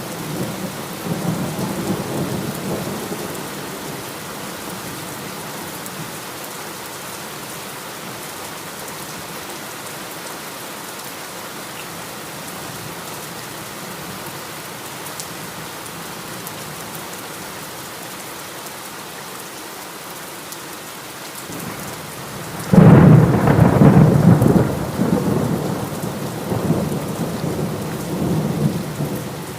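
Steady heavy rain with thunder. A low rumble in the first seconds fades away, then a loud clap of thunder breaks suddenly about three quarters of the way through and rolls on to the end.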